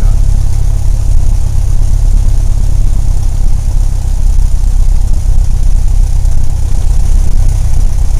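Cessna 172's single piston engine and propeller droning steadily, heard from inside the cabin as a loud, even low hum.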